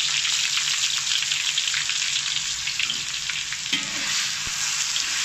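Pounded ginger and garlic sizzling and crackling in hot oil in a wok. A spatula starts stirring and scraping them around the pan near the end.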